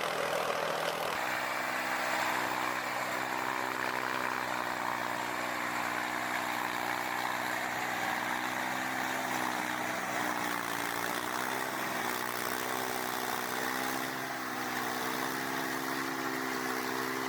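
Forestry tractor's diesel engine running steadily, its note dipping briefly about ten seconds in as it takes load, then recovering.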